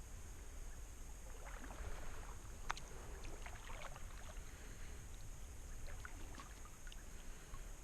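Water lapping and trickling around a small boat, with a few small knocks, one sharper than the rest, over a steady low rumble of wind on the microphone.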